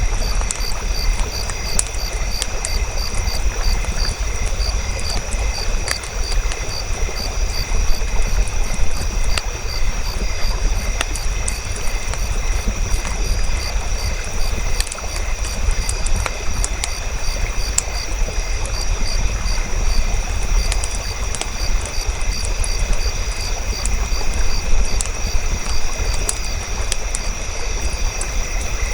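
Campfire crackling, with scattered sharp pops over a steady low rumble, and insects chirping in a steady pulsing rhythm.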